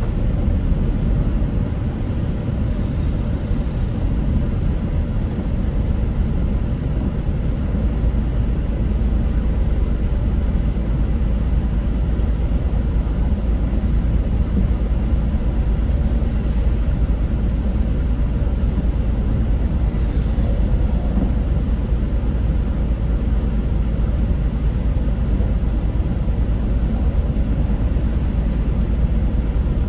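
Steady low rumble of a car driving along: engine and tyre noise heard from inside the cabin.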